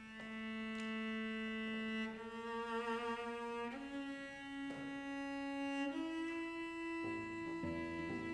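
Instrumental music: a bowed string instrument, cello-like, plays slow, long held notes that step upward in pitch, and lower accompanying notes join about seven seconds in.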